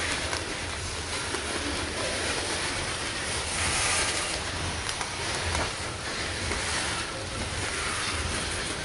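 Coal train cars rolling past on the rails: a steady rumble with wheel and rail noise and faint scattered clicks.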